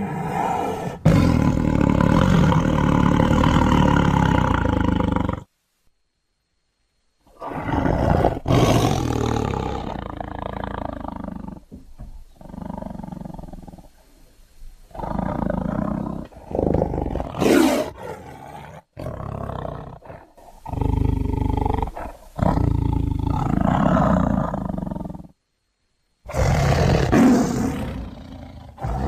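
Tiger roars and growls: a string of separate calls joined by abrupt cuts, with two short gaps of dead silence between clips.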